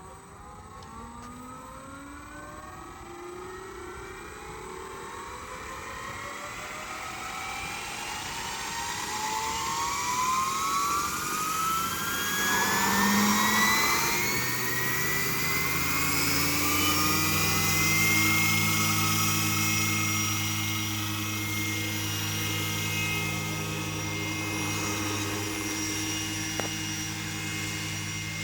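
Scale Eurocopter EC135 RC helicopter spooling up: a whine that rises in pitch and grows louder over about the first eighteen seconds as the rotor comes up to speed, then holds steady.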